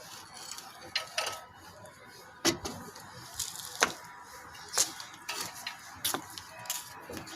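Scattered sharp clicks and knocks of hard objects, roughly one a second at irregular spacing.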